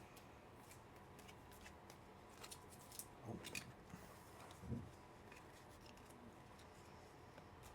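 Near silence, with a few faint clicks and rustles past the middle from trading cards and pack wrappers being handled.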